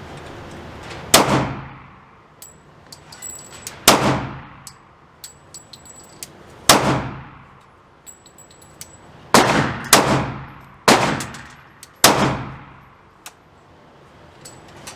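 Seven gunshots from a handgun-type firearm: three spaced about three seconds apart, then four in quicker succession. Each has a long echoing tail, and light metallic clinks fall between them. These are test shots to zero a red dot sight.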